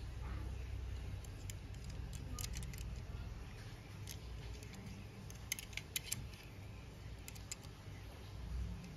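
Light clicks and taps from handling a small diecast model and its packaging, in small clusters over a low steady rumble.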